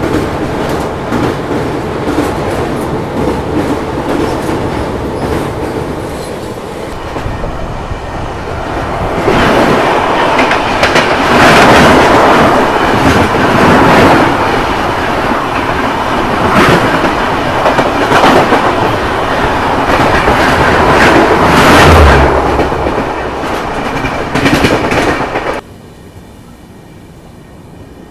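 Express train running at speed, heard from an open coach door, with wind buffeting the microphone. From about nine seconds in, an opposing express train passes close alongside: a loud rush with a rapid clatter of its coaches' wheels over the rail joints. About three seconds before the end the noise drops suddenly to a quieter rumble.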